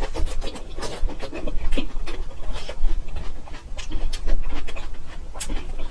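Chewing raw ginger root, with irregular crisp crunches.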